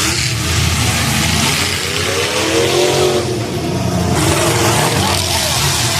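Derby cars' engines running hard in the arena over a steady wash of noise, with one engine revving up and back down about halfway through.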